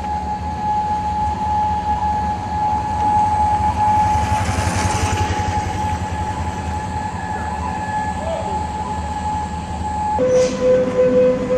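Heavy truck diesel engine running with a low pulsing rumble under a steady whine; the whine drops to a lower pitch about ten seconds in. A burst of hiss comes about four to five seconds in.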